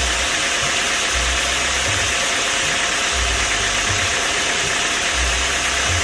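A machine engine running steadily, making a loud, even noise with faint steady tones and an uneven low rumble beneath.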